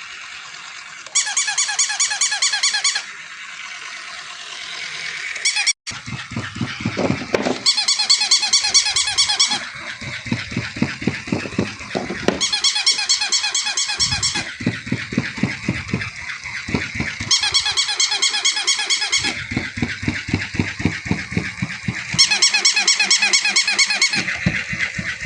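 Battery-operated electronic toy sounding a repeating squeaky chirping effect in bursts of about two seconds, every four to five seconds. From about six seconds in, a fast rhythmic mechanical pulsing from its motor runs underneath.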